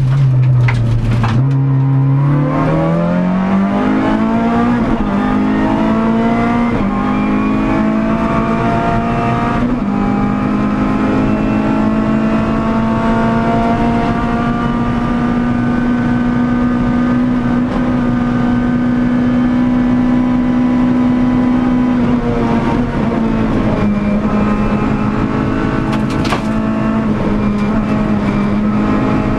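Renault Clio Sport rally car's engine heard from inside the cockpit, pulling hard out of a slow corner with the revs climbing over the first few seconds, then held high and nearly steady at speed. The revs dip briefly about 23 seconds in, and a few sharp knocks come through the body near the start and once near the end.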